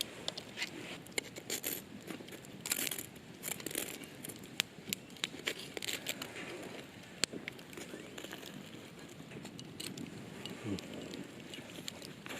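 Irregular light clicks, taps and crinkling rustles, as of small objects being handled, densest in the first half.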